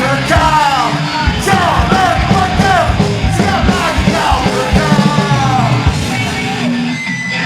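Live punk band playing loud, with shouted, chanted vocals over distorted guitars, bass and pounding drums. The vocals stop about six seconds in while the band plays on.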